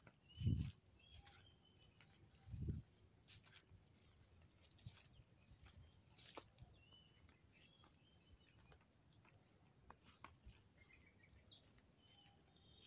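Faint scattered chirps and short falling whistles of small birds. Two dull low thumps about half a second and two and a half seconds in stand out above them.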